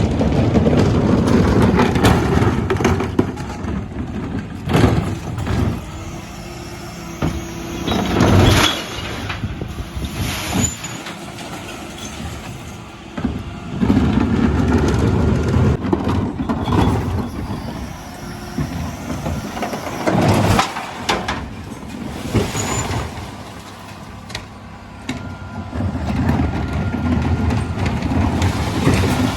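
Dennis Elite 6 refuse lorry's diesel engine running, louder in long stretches, with several short, sharp bursts of noise over it.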